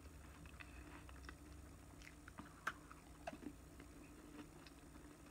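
Faint crunching as someone bites and chews the crisp tip of a cookie butter ice cream cone: a scatter of small crisp clicks, with one sharper crunch about halfway through.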